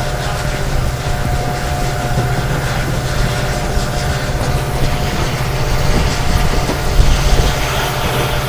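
Moving passenger train heard from on board: a steady low drone from the hauling WDP4 diesel locomotive's EMD engine over running wheel and rail noise.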